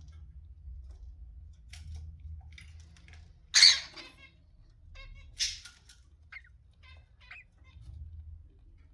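Cockatiel giving two loud, harsh squawks, about three and a half and five and a half seconds in, among short fainter chirps, over a low steady hum.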